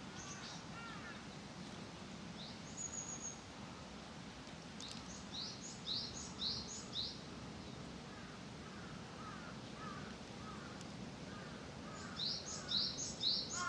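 Songbirds singing: runs of four or five high, quickly falling notes about a second apart, twice, with softer, lower chirps in between. A steady low background rumble runs underneath.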